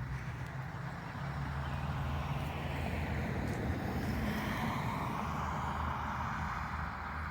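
A road vehicle passing by, its rushing sound swelling over a few seconds and easing off near the end, over a steady low hum.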